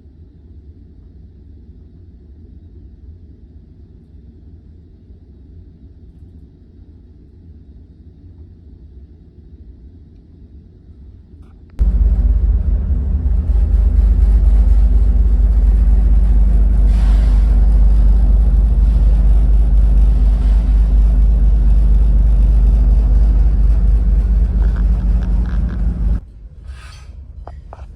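Steady low drone of a ferry's engines and machinery. About twelve seconds in it turns suddenly much louder and deeper, a steady droning with a fixed low pitch and some hiss above it, then drops back abruptly near the end.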